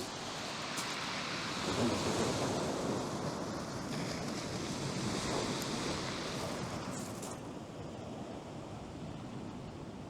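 Sea waves breaking and washing up the beach, swelling twice, with strong wind buffeting the microphone.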